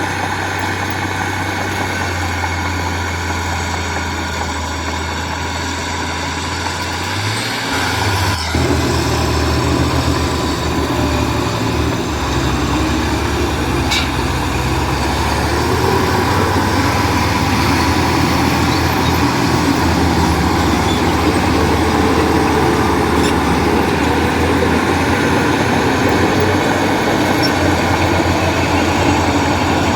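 Heavy diesel engine of construction machinery running steadily, its low note shifting with a brief knock about eight seconds in, then a little louder through the second half.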